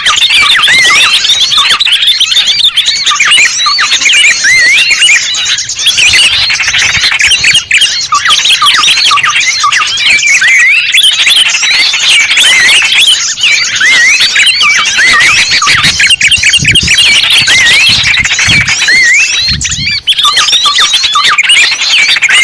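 A dense, unbroken chorus of many small songbirds chirping and twittering in quick, high, wavering notes. It is a lure recording used to draw small birds in.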